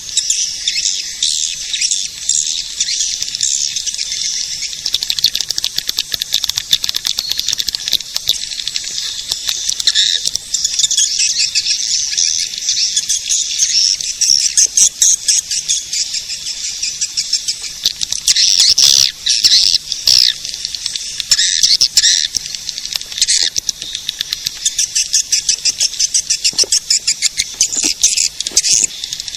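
Swiftlet caller recording: dense, continuous high twittering and rapid chirping of many swiftlets, with no low sound in it. It is the lure sound played to draw swiftlets to a nesting house.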